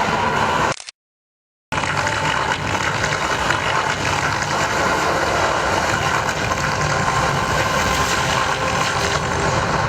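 Loud, steady rumbling sound effects from the projection-mapping show's soundtrack, played over loudspeakers. The audio cuts out completely for about a second near the start.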